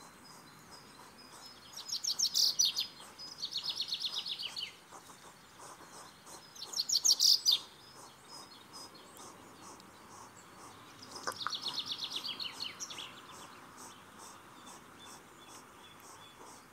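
Small songbird singing: four rapid trills of high, quickly repeated notes, each lasting one to two seconds, over a faint outdoor background.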